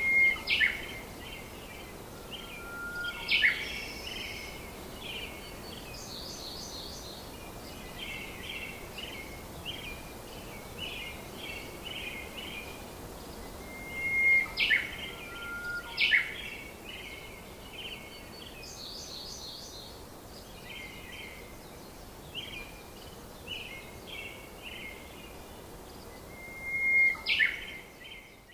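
Birdsong: bursts of chirps and trills with short whistles and sharp sweeps over a steady hiss. The same sequence repeats about every 14 seconds, like a looped birdsong recording.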